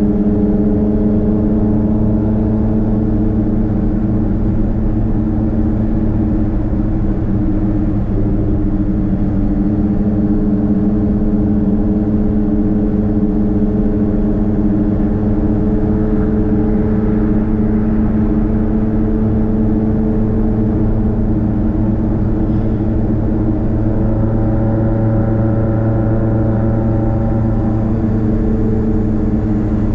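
Nissan Platina's four-cylinder engine with a straight-pipe exhaust, a steady, loud exhaust drone while cruising, heard from inside the car; the note shifts slightly in pitch late on as the speed changes.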